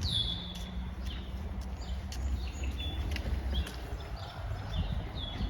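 Birds calling: a series of short, high whistled notes, the first sliding down and holding briefly, over a low steady rumble of wind or walking.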